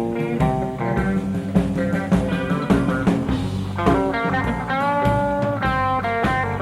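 Live blues-rock band playing an instrumental passage: an electric guitar plays lead lines with held, bent notes over bass and drums.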